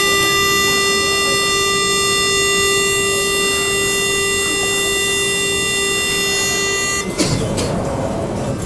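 Mexico City Metro train's door-closing warning: one steady buzzer tone held for about seven seconds, then cutting off suddenly. Right after, the doors slide shut with a knock and rumble.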